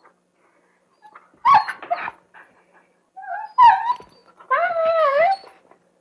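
Dog vocalising: short, sharp yelps about a second and a half and three and a half seconds in, then a drawn-out whine that wavers in pitch for about a second.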